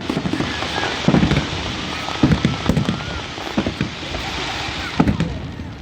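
Fireworks going off: a dense crackling hiss with irregular deep bangs about a second apart.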